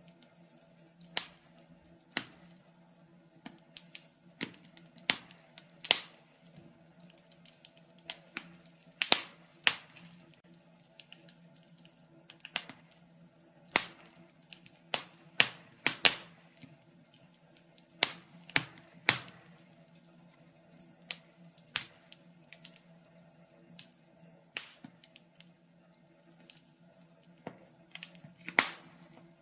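Wood fire crackling in a fireplace: irregular sharp pops and snaps, one to three a second, over a faint steady low hum.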